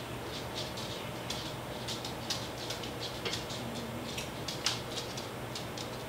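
Chewing of chicken McNuggets, close to the microphone: irregular small wet mouth clicks and smacks, several a second.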